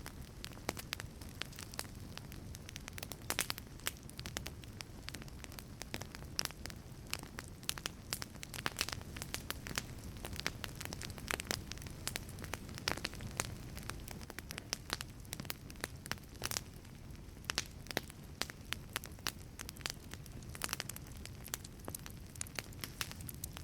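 Wood fire burning in a wood-fired pizza oven: irregular sharp crackles and pops over a steady low rumble of flame.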